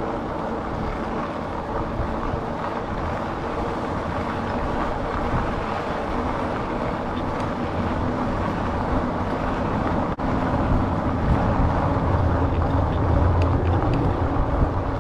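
Steady riding noise of a fat-tyre Rad Rover e-bike in motion: wind and tyre rumble with a faint steady hum. The low rumble grows stronger in the second half, and the sound cuts out for an instant about ten seconds in.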